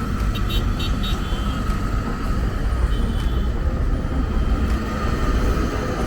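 Road traffic noise from the surrounding Lagos roads: a steady low rumble of passing vehicles, with a faint whine running through it.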